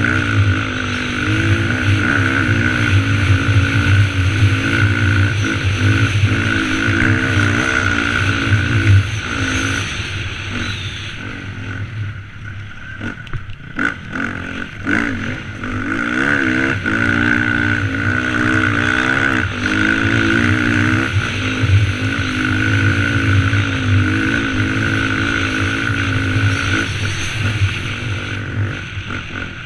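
Dirt bike engine running hard over trail ground, its pitch climbing and dropping over and over with the throttle and gear changes, easing off for a few seconds about halfway through before pulling again.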